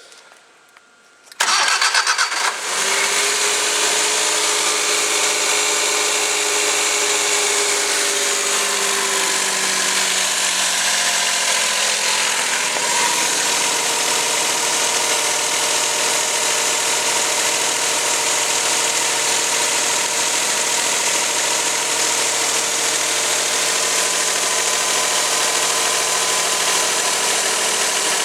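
Suzuki K6A 660 cc three-cylinder engine cranked on the starter for about a second before it catches. It then runs at a raised idle that drops gradually over several seconds and settles into a steady idle.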